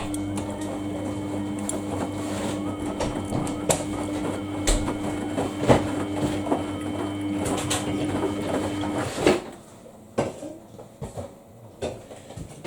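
Samsung washing machine humming steadily, with water splashing and small clicks over the hum. The hum cuts off with a knock about nine seconds in, and a few scattered clicks and knocks follow.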